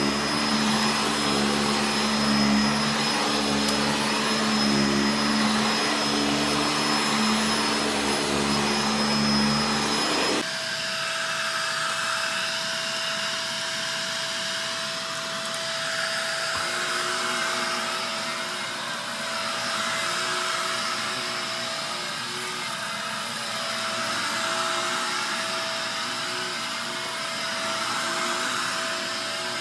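Upright vacuum cleaners running while vacuuming up rock salt and dirt. About ten seconds in, the sound switches abruptly from a deep humming motor to a different vacuum with a steady higher whine and a swish that swells and fades every couple of seconds, like strokes back and forth.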